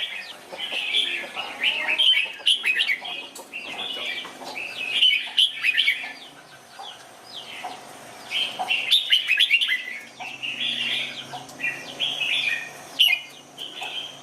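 Red-whiskered bulbul singing: bursts of quick, bright warbled phrases, each a second or two long, with short pauses between them.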